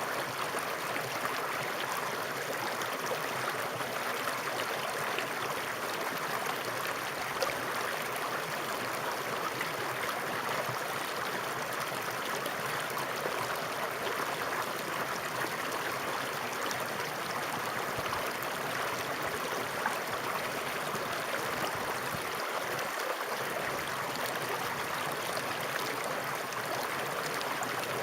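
Flowing water running steadily, a continuous even rush.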